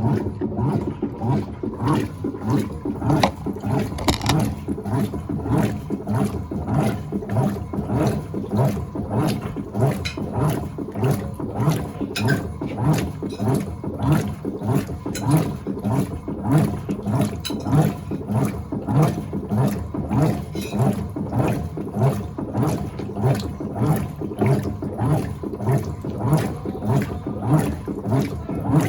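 Electrolux Turbo Acqua Jet LTA15 top-load washing machine agitating in its first rinse: the agitator swishes the load back and forth through the water in a steady rhythm, about three strokes every two seconds.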